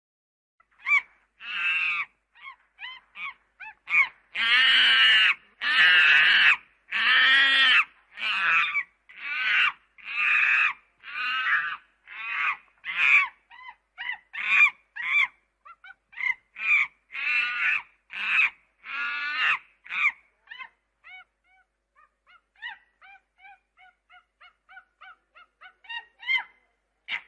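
Monkeys calling: a run of harsh, honking calls about once a second, each under a second long. For the last few seconds they give way to a rapid string of short, high chirps, with a few louder calls near the end.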